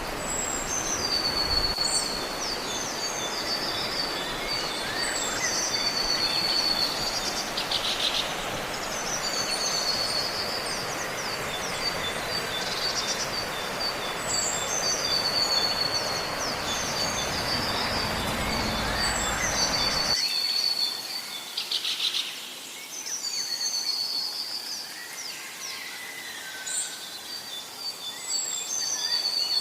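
A songbird singing the same short high phrase over and over, a few seconds apart, over a steady background hiss that cuts off abruptly about two-thirds of the way through.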